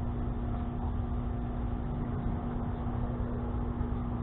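A steady machine hum at one constant pitch over a low rumble.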